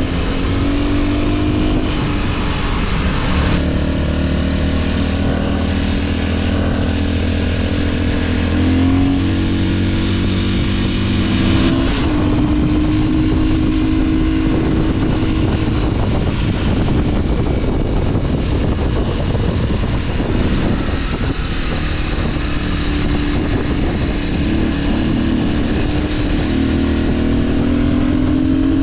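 Motorcycle engine under way, its note climbing and dropping back several times as the rider runs up through the gears, over steady rushing wind noise.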